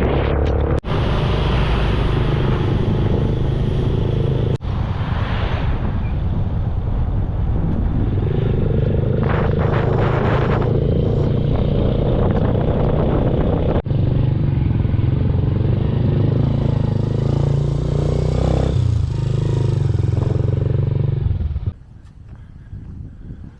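Motorcycle engine running steadily under way, with wind and road noise, in several short spliced stretches; the engine sound stops near the end.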